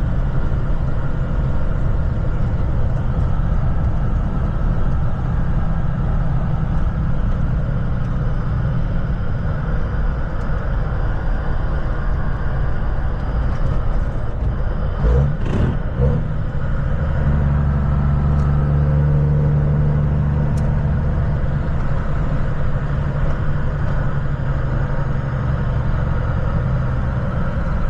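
A road vehicle driving, heard from inside the cab: steady engine and road rumble. Halfway through there is a brief sharp noise, then the engine drones louder for a few seconds.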